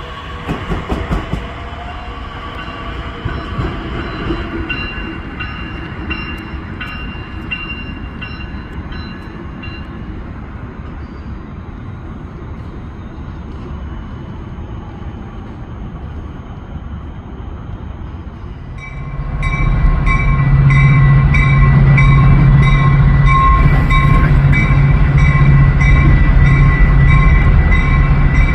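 Train running past on the rails with a steady rumble. About two-thirds of the way through it changes abruptly to a much louder, steady train sound with a low hum and a regular ringing pattern of about two strokes a second above it.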